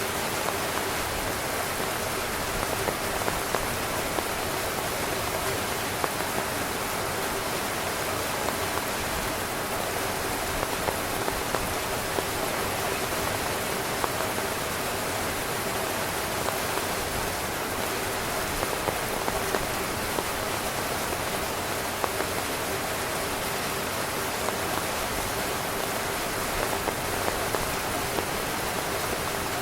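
Steady heavy rain falling on a tent: an even hiss with scattered louder drops tapping on the fabric.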